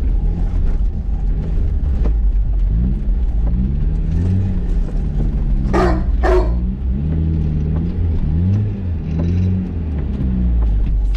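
Mazda MX-5's four-cylinder engine revving up and down again and again under a low rumble, heard from inside the cabin on an autocross run over wet grass and clay. About six seconds in, two short sharp yelp-like sounds cut through.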